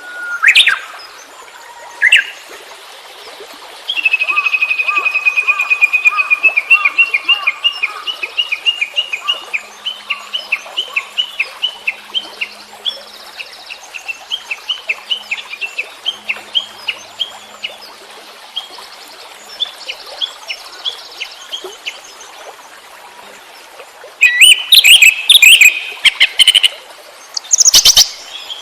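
Songbird singing: a few short calls, then a long run of repeated chirps, about three or four a second, and louder, more varied phrases near the end.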